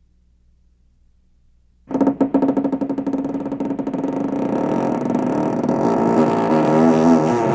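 Near silence, then about two seconds in a small engine starts abruptly and runs loudly with a rapid pulsing, its pitch wavering up and down near the end.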